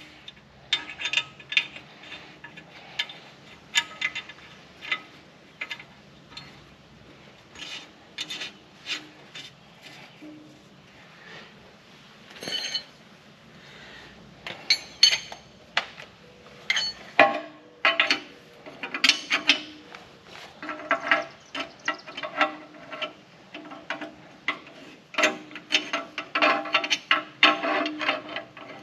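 Hand wrench and ratchet working steel bolts on a loader mounting bracket: irregular sharp metallic clicks and clinks with a brief ring, sparse at first and coming thick and fast in the second half.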